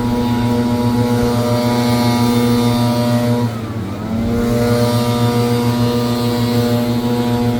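Gas leaf blower running at full throttle; about halfway through the engine briefly drops in pitch as the throttle is eased off, then climbs back up to full speed.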